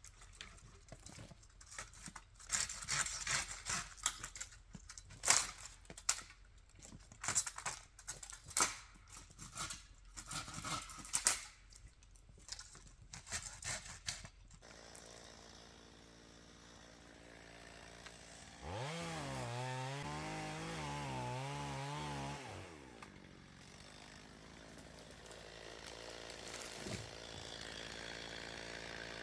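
A run of irregular sharp crunches and knocks for about the first half. Then, about two-thirds of the way through, a two-stroke chainsaw engine runs for a few seconds at part throttle, its pitch wavering, and drops away.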